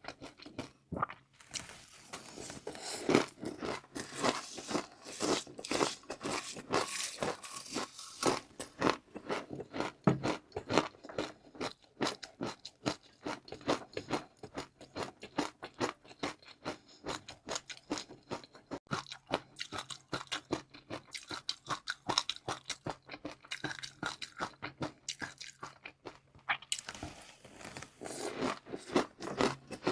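Close-miked eating: a person biting and chewing crunchy food, a fast, continuous run of crisp crunches.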